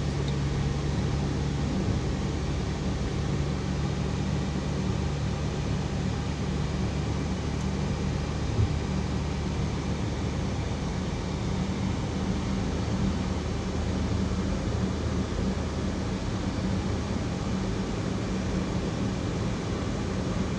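Steady low vehicle engine hum under an even wash of noise, with a single knock about eight and a half seconds in.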